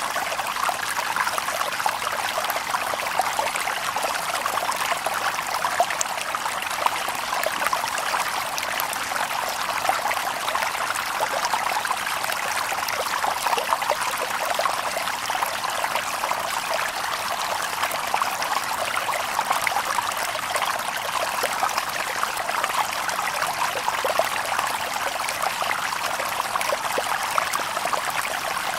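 Shallow stream babbling over stones: a steady rush of water with many small splashes and trickles, no birds.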